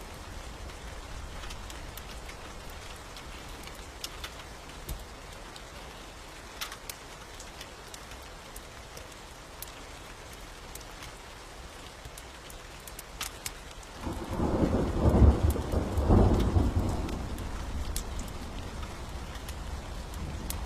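Steady rain with scattered sharp crackles, then about fourteen seconds in a loud roll of thunder rumbles in and carries on, loudest just after it starts.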